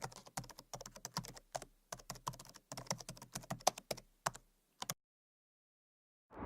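Rapid, irregular clicking like typing on a computer keyboard, several keystrokes a second, stopping about five seconds in. Dead silence follows, then a steady rushing noise starts right at the end.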